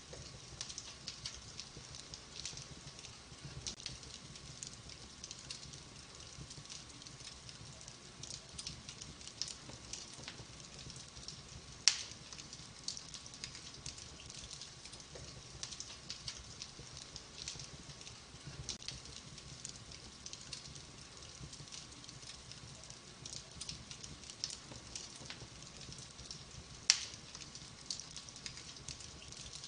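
Wood fire burning in a fireplace, crackling continuously with many small pops, and two sharper, louder pops, one about twelve seconds in and one near the end.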